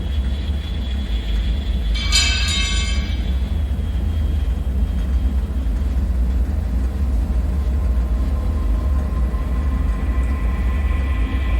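Dark ambient drone: a steady deep rumble, with a brief shrill screech about two seconds in and a high ringing whine that fades in near the end.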